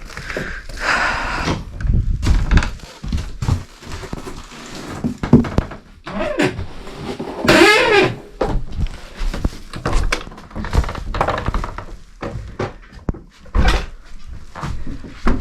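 Thumps and knocks of doors and footsteps indoors, a quick series of separate impacts, with a long wavering squeal about eight seconds in.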